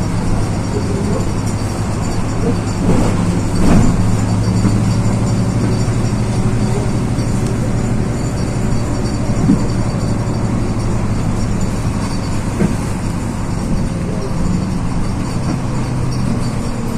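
Inside a LiAZ 6213.22 articulated city bus under way: a steady low engine drone with road noise, a knock about four seconds in, and a faint whine that slowly falls near the end.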